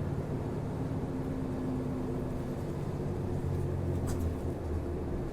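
Route bus running, heard from inside the cabin: a steady engine and drivetrain drone whose low tones shift slightly as it drives, with a short rattle or click about four seconds in.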